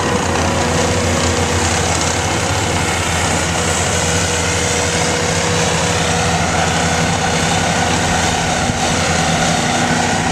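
Diesel engine of heavy equipment running steadily at a constant speed, with a broad mechanical hiss over its low hum.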